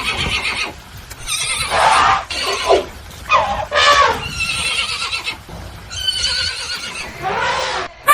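Horses neighing and whinnying: a run of about seven loud calls in a row, several of them falling in pitch, with short pauses between.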